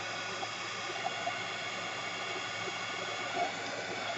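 Handheld electric drying tool (heat gun or hair dryer) running steadily, a fan rush with a steady motor whine, drying fresh ink and paint on an art journal page.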